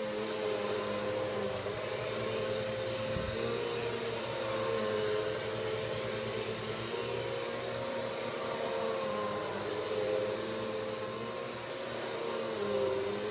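Vacuum cleaner running steadily: a motor hum with a high whine over it, its pitch sagging slightly a couple of times.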